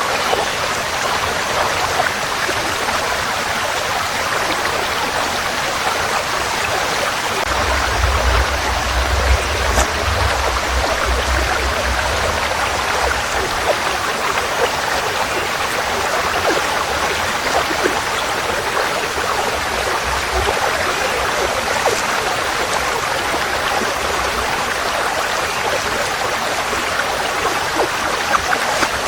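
Forest stream flowing steadily, an even rushing of water, with a low rumble underneath from about eight to thirteen seconds in.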